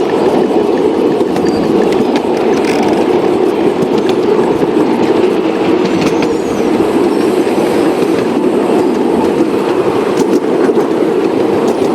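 Model train running along its track: a steady rolling rumble with faint wheel clicks.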